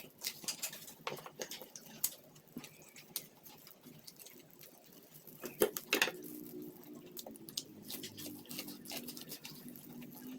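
Close-up eating of boiled corn on the cob: uneven wet mouth clicks and small crunches of biting and chewing kernels. A faint steady low hum comes in about six seconds in.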